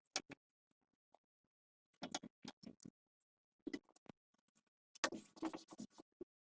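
Scattered clicks and small knocks of hand work on parts, with a longer scratchy scraping about five seconds in.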